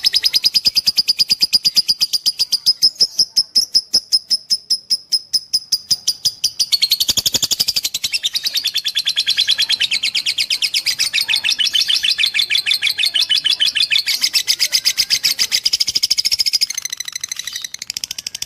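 Lovebird singing a long, fast chattering song: a steady string of sharp, high chirps, several a second, that becomes a fuller, busier chatter about seven seconds in.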